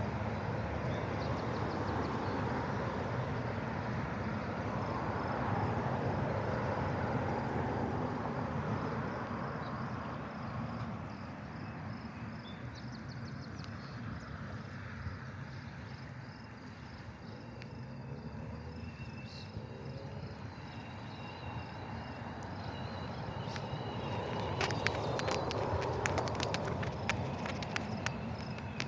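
Outdoor ambience: a steady low rumble that swells, fades and swells again, with faint high chirping and a run of sharp clicks near the end.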